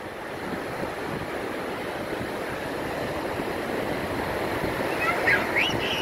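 Surf washing on the shore with wind on the microphone, as a steady rushing noise. Near the end come a few short, high cries that rise and fall.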